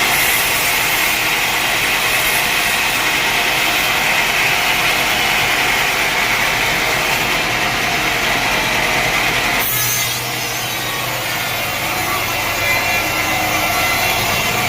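Sawmill saw cutting through a mahogany log, a steady, loud sawing noise. About ten seconds in there is a sudden click, and the sound drops slightly in level after it.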